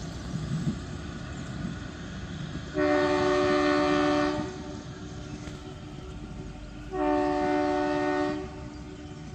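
Kalka–Shimla narrow-gauge train sounding its horn: two long, steady blasts about a second and a half each, a few seconds apart, over the rumble of the train running.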